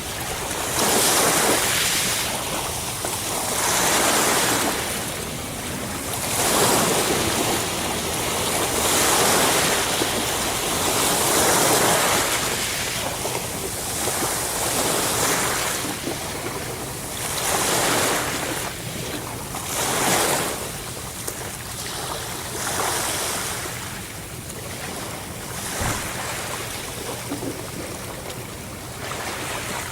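Ocean waves breaking and washing on the shore, a steady hiss that swells and eases with each wave every two to three seconds.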